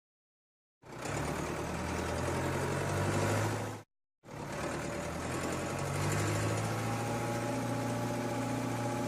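A cartoon vehicle engine sound effect: a heavy machine's engine running steadily in two stretches. It cuts out briefly about four seconds in, then starts again.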